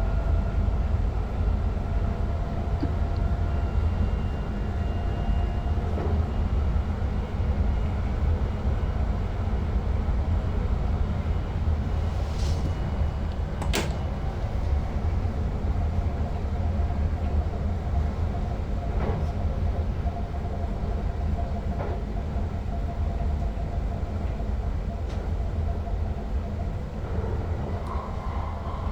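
Sprinter Lighttrain (SLT) electric multiple unit running along the track, heard from the driver's cab as a steady low running noise. A few sharp clicks come through, the sharpest about fourteen seconds in.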